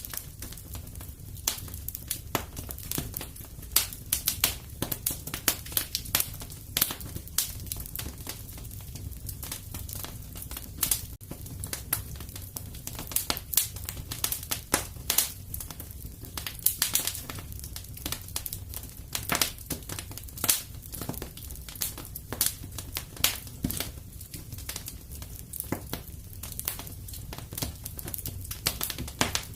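Fire crackling in a fireplace: irregular sharp snaps and pops, some louder than others, over a steady low rumble.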